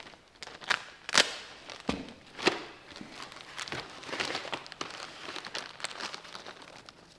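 Hands handling small metal Allison transmission shift-kit parts: a few sharp clicks in the first couple of seconds, then rustling.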